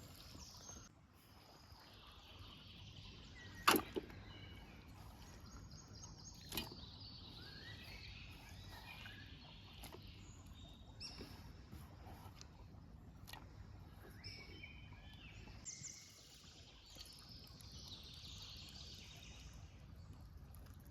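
Faint birdsong, short chirps and trills going on throughout, over low steady outdoor background noise. A sharp click comes about four seconds in and a smaller one a few seconds later.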